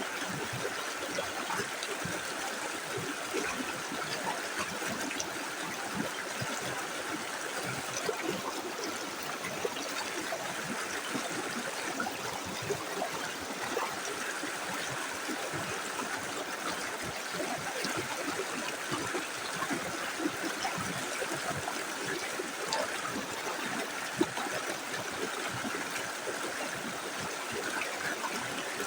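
Small river flowing steadily over stones, an even rush of water with many small gurgles and splashes.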